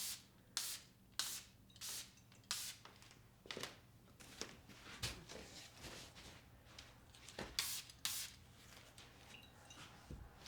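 Short hissing cleaning strokes, about one every two-thirds of a second at first, then a few scattered ones with a close pair near the end.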